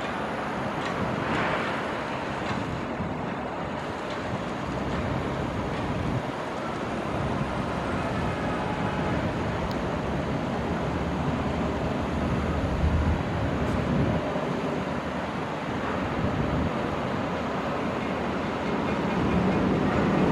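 Heavy construction machinery working: a CAT 320 crawler excavator's diesel engine running steadily while it loads sand into a tractor-drawn dump trailer.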